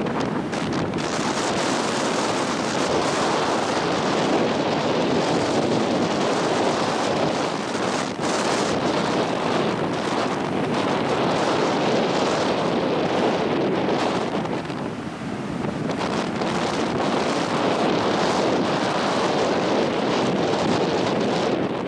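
Strong wind buffeting the microphone: a loud, continuous rush of noise that eases briefly about fifteen seconds in.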